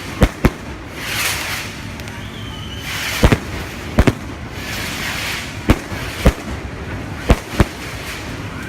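Fireworks display: a string of sharp bangs, some in quick pairs, with hissing whooshes between them and a short whistle just before the third second.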